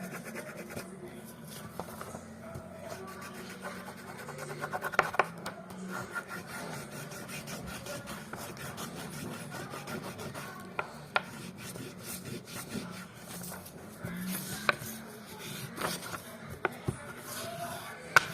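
A colored pencil scribbling back and forth on paper, shading in an area in brown, with a few sharp taps now and then.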